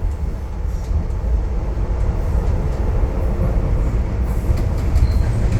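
Docklands Light Railway train heard from inside the carriage: a steady low rumble with faint light ticks above it.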